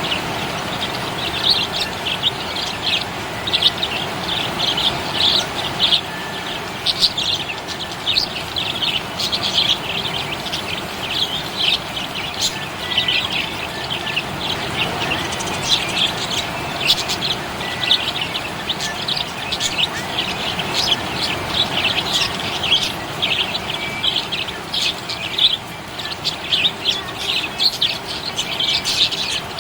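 Pet budgerigars chirping continuously: rapid, overlapping high chirps with no pause.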